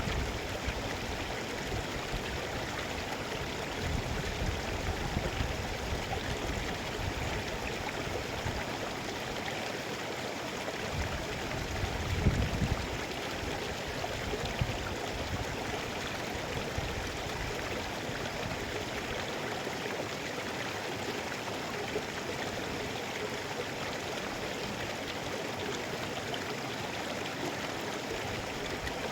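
Mountain river flowing and splashing over rocks, a steady rushing of water, with a few brief low thumps of the current, the loudest a little under halfway through.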